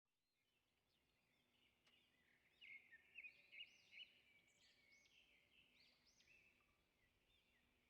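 Faint bird chirping: repeated short, high trilling calls over a low background hiss and hum, getting busier a little over two seconds in.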